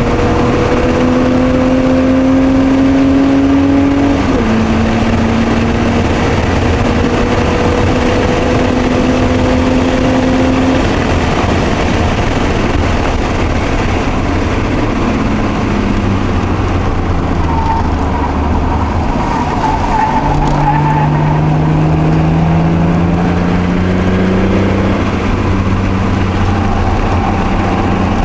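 Mk2 Toyota Supra's 5M-E inline-six, run on Megasquirt engine management, heard from inside the cabin under hard track driving: the engine note climbs, drops sharply with a gear change about four seconds in, climbs again, eases off, then climbs once more near the end. A brief tyre squeal in a corner comes a little past the middle.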